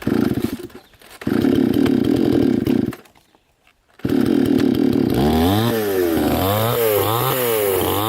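Two-stroke chainsaw cutting wood in three loud bursts. In the last and longest, the engine pitch rises and falls about twice a second as it bogs under load.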